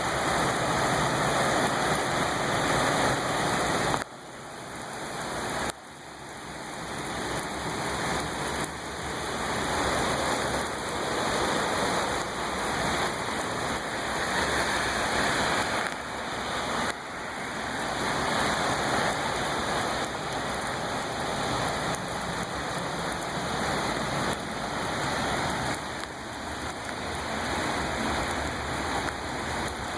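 Heavy rain pouring down, a dense steady hiss of falling water. It drops away suddenly about four and six seconds in and swells back each time.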